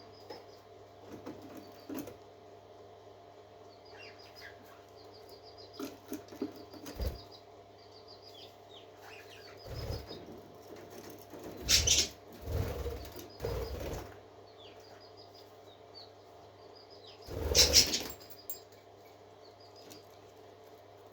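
Parakeets chattering in quick high chirps and short trills, with two louder noisy rustling bursts, about halfway and near the end, and a faint steady hum underneath.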